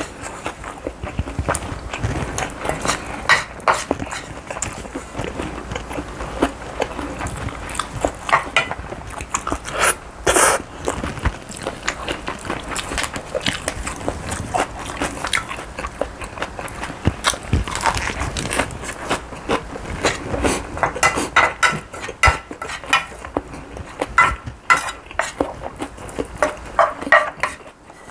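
A person eating: chewing mouthfuls of food, with many short wet smacks and clicks throughout.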